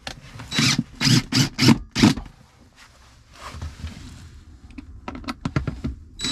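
Hand work with a wooden batten and tools: several short scrapes and knocks in the first two seconds, then a run of quick small clicks about five seconds in.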